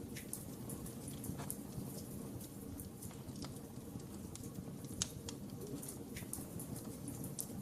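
Wood fire crackling in a fireplace: irregular small pops and snaps over a low steady rush of flames, with one sharper pop about five seconds in.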